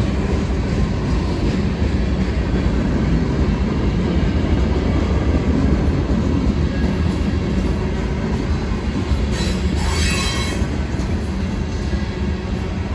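Freight train cars rolling past with a steady, loud rumble of wheels on rail. About ten seconds in, a wheel squeals briefly on the rail.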